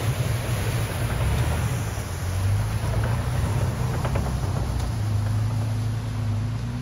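Toyota Tacoma pickup truck driving off: a steady low engine hum with road and tyre noise.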